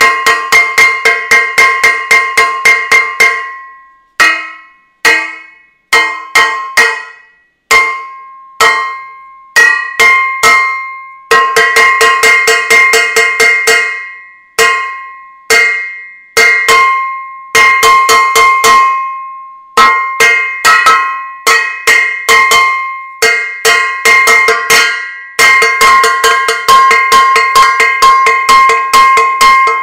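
A metal saucepan being struck over and over, each hit a ringing metallic clang. The hits come in fast runs of about five a second, broken by stretches of slower, spaced-out strikes.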